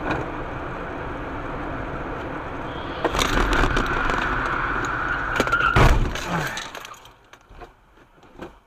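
Car crash: road noise, then a long high squeal from about three seconds in that ends in a sharp impact with cracking and breaking, followed by a few small clattering knocks as the noise dies away.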